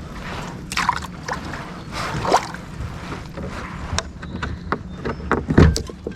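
Water lapping and splashing around a fishing kayak over a steady low hum, with louder splashes about a second in, at about two seconds and near the end.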